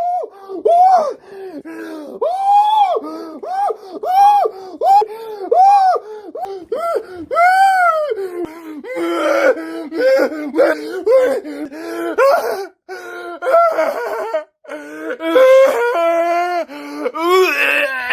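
A man crying and wailing in a long string of short, high-pitched rising-and-falling cries with gasping breaths between, the cries coming faster and more strained in the second half.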